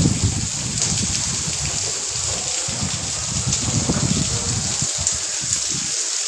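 Heavy rain pouring steadily, a constant hiss, with irregular low rumbling underneath that stops shortly before the end.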